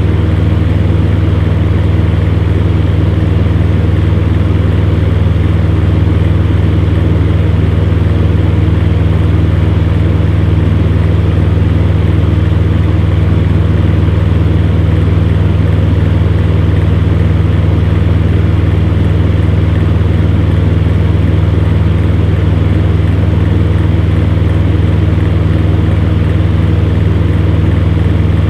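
Electric fan running steadily: a strong low motor hum with a whoosh of moving air, unchanging throughout.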